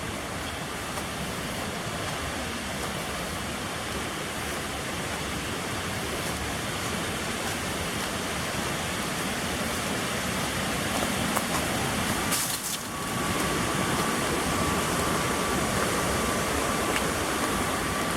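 Waterfall rushing as a steady, even roar of falling water. It drops out briefly about two-thirds of the way through, and a faint, steady, high thin tone sits over it from then on.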